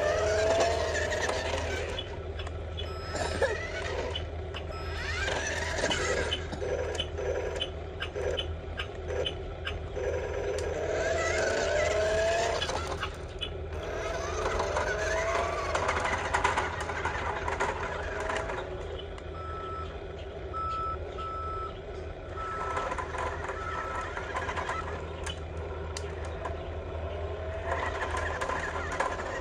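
Electric drive motors of radio-controlled Huina construction models whining, rising and falling in pitch as they move, over a steady low hum with scattered clicks. About twenty seconds in comes a run of about six short, evenly spaced beeps, like a reversing alarm.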